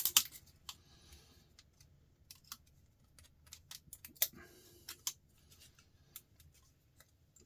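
Irregular sharp clicks and snaps of small plastic and metal parts being handled and pried apart, as a tiny circuit board is taken off a plastic housing. The loudest snaps come right at the start.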